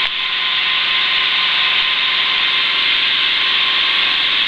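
Steady engine and rotor noise of a Schweizer 300CBi piston helicopter, heard through the cockpit intercom as an even rasping drone with faint steady tones in it.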